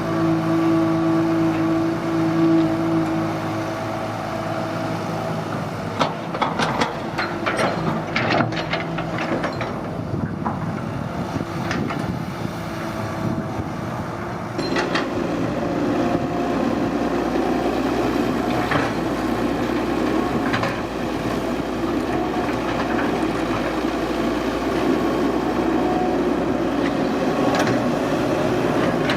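Excavator's diesel engine running, with a run of metallic clanks and knocks between about six and ten seconds in. About halfway through, the engine grows louder and rougher, as if it is working under load.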